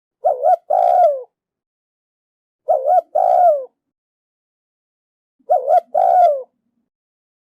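Female spotted dove cooing, three identical calls about two and a half seconds apart. Each call is a short double note followed by a longer, falling coo. It is a hen's call of the kind used to rouse cock doves.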